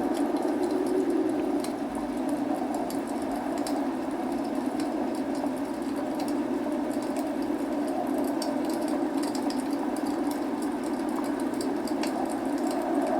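Log fire crackling with many small, irregular pops and snaps over a steady hiss of rain.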